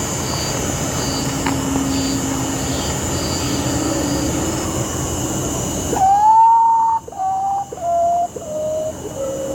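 Potoo singing: a loud, mournful whistle followed by four shorter whistles, each lower in pitch, starting about six seconds in. Before it there is a steady noisy hum with a faint, regularly repeated high chirp.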